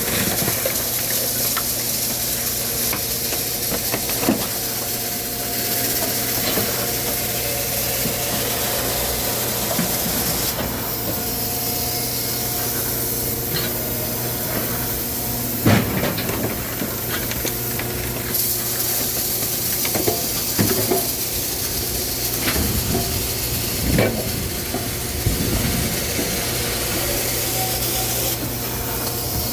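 Firewood processing machinery running steadily with a constant hum. A high hiss switches on and off in long stretches, and a few sharp knocks of wood on wood or metal come through, the loudest about sixteen seconds in.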